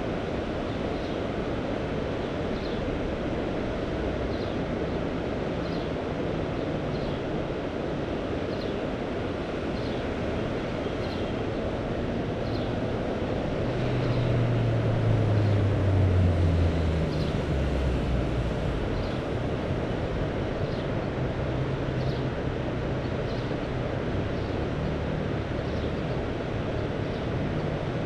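Steady sea ambience of surf and wind noise on the microphone. Midway a low engine drone swells and drops in pitch as it passes, then fades back into the surf.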